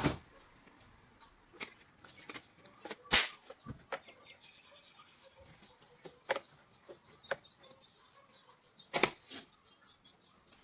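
Irregular clicks, taps and knocks of small hard parts being handled, with a sharp knock about three seconds in and another near nine seconds.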